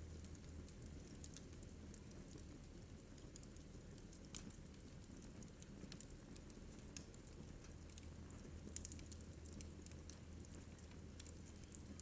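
Wood fire in a fireplace crackling faintly, with sparse, irregular small pops and snaps over a steady low hum.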